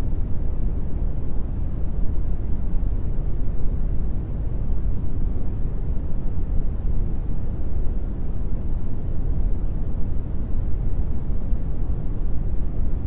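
Brown noise: a steady, deep, even hiss, strongest in the bass and dull in the treble, with no changes.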